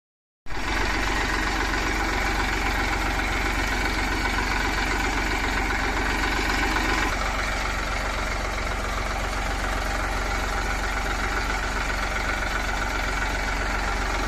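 Diesel engine of heavy farm or earthmoving machinery idling steadily, with a clattering knock. It cuts in abruptly after a moment of silence, and its tone shifts slightly about seven seconds in.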